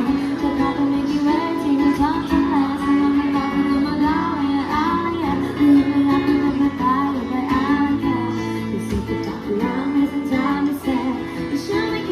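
Female voice singing a Thai pop song to acoustic guitar accompaniment.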